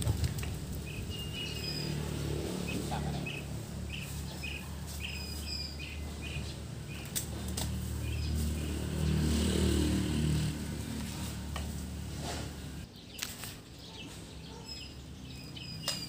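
Small birds chirping in short, repeated high calls, in runs during the first few seconds and again near the end, over a steady low rumble, with a couple of sharp knocks.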